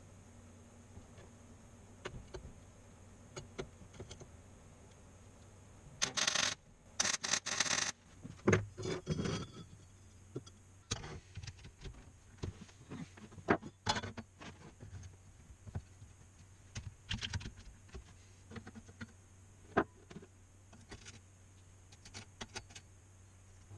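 Metal parts and tools being handled: scattered clicks, clinks and knocks, with a cluster of short, louder bursts of noise about six to eight seconds in.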